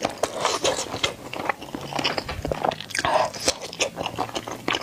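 Chewing braised pork belly cubes: a rapid, uneven run of wet mouth smacks and clicks.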